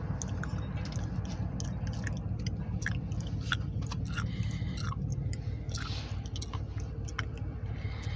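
Grain hopper cars of a freight train rolling slowly past: a steady low rumble with scattered clicks, knocks and short squeaks from the wheels and couplers.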